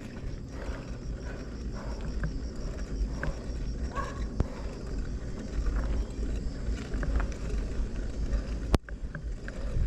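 Bicycle being ridden: heavy wind rumble on the microphone with scattered small rattles and clicks from the bike, and one sharp click about nine seconds in.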